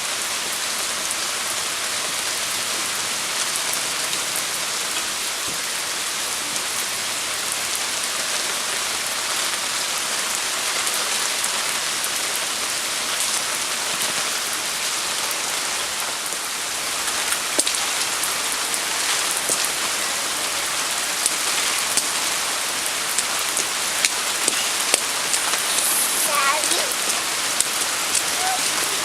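Pouring rain falling steadily, an even hiss, with sharp individual drops ticking close by more and more often in the second half.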